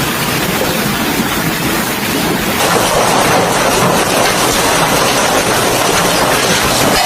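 Heavy hailstorm pelting down: a loud, dense, steady roar of hail and rain, changing in character a little under three seconds in.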